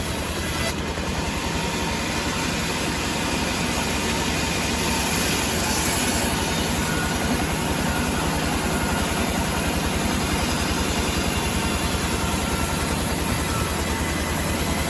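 Sawmill machinery running steadily on its engine, with an even low pulsing and no change through the stretch.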